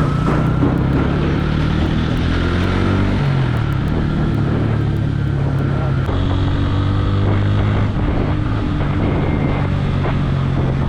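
Bajaj Pulsar N160 single-cylinder engine running while riding, its pitch rising and falling with the throttle, with wind buffeting the microphone.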